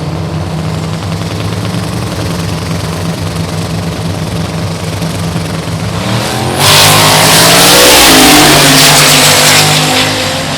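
C10 street truck's drag engine runs at a steady, even note for about six seconds. Then it jumps suddenly to a much louder full-throttle run, its pitch sweeping, and eases off near the end.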